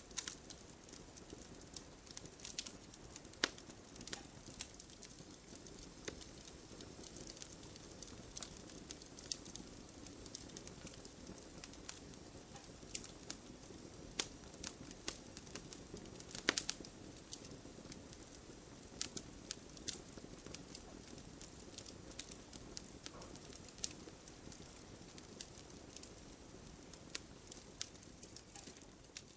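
Wood fire crackling, with irregular sharp pops and snaps over a soft steady hiss of the flames.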